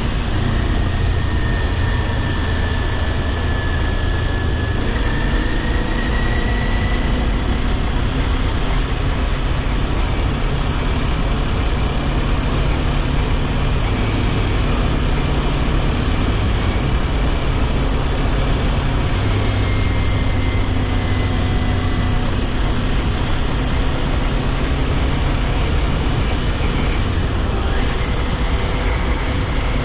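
Kawasaki Ninja 400's parallel-twin engine running at a steady cruise, its note shifting slightly now and then, under steady wind rush on the microphone.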